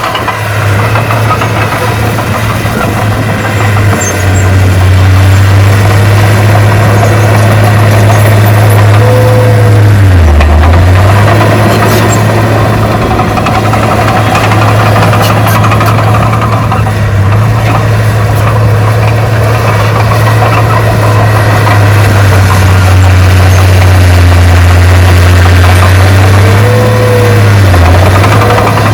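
Heavy earthmoving machine's diesel engine running steadily. Its pitch dips briefly and recovers twice, about ten seconds in and again near the end.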